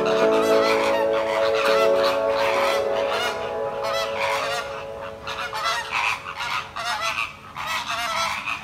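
Many birds calling over and over in short, quick calls, with background music fading out over the first half.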